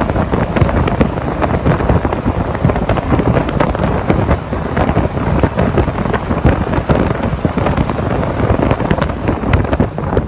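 Heavy wind buffeting on the microphone of an onboard camera in a Mazda MX-5 (NC) running at speed on a race track, a dense steady rumble with no clear engine note standing out.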